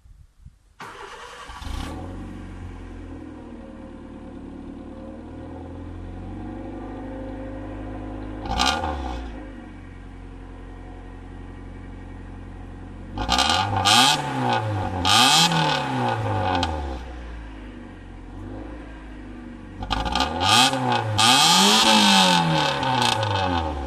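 Sixth-generation Honda Civic's four-cylinder engine idling through its exhaust. It is blipped once about a third of the way in, then given two sets of quick free revs in the second half, each rising and falling several times before settling back to idle.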